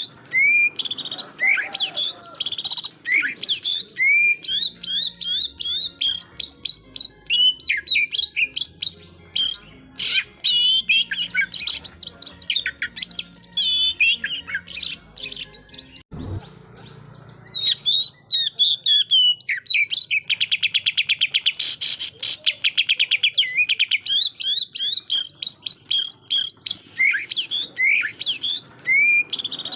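Oriental magpie-robin singing a loud, varied song of quick rising whistles and chattering phrases. About two-thirds of the way through it gives a fast rattling trill, the rapid-fire "shooting" style. Just past halfway the song breaks off with a single knock and a short pause.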